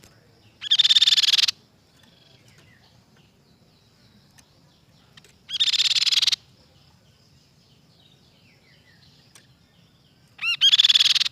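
Crescent-chested babbler (tepus pipi perak) calling: three loud phrases of under a second each, about five seconds apart, over faint high twittering.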